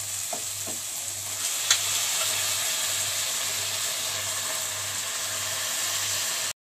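Onion-tomato masala frying in hot oil in a pan, sizzling steadily as boiled kidney beans are tipped in. There is a single sharp click about a second and a half in, and the sound cuts out briefly near the end.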